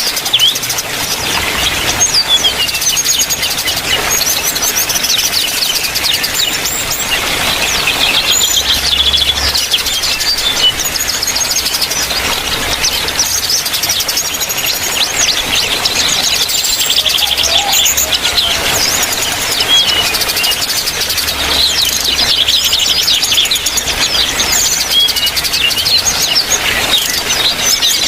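Mixed aviary birds, small birds with a sooty-headed bulbul among them, chirping and twittering continuously, many short high calls overlapping.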